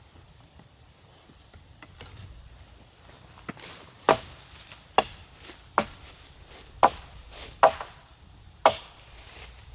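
Wood being chopped with a hand tool: six sharp chopping strokes about a second apart, starting about four seconds in, after a couple of lighter knocks.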